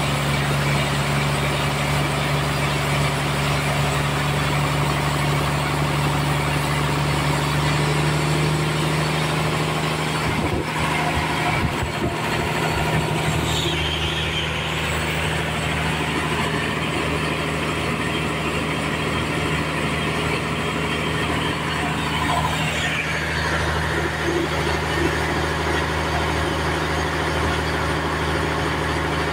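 Engine-driven sawmill running steadily while its blade saws through a trembesi (rain tree) log, with a higher cutting whine that shifts and drops in pitch in the middle.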